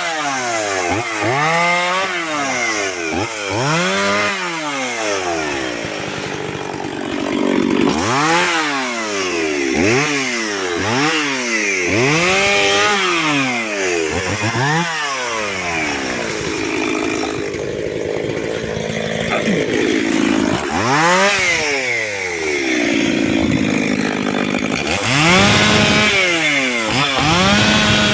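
Chainsaw cutting wood, its engine pitch rising and falling over and over as the chain bites into the cut and frees again.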